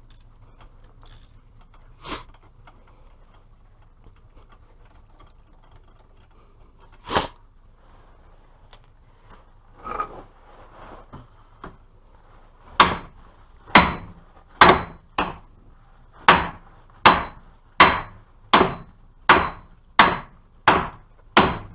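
Hammer blows on the steel hub and axle end of a Dodge Caravan: a few scattered strikes, then from just past halfway a steady series of about a dozen ringing blows, a little more than one a second, which free the CV axle from the seized hub.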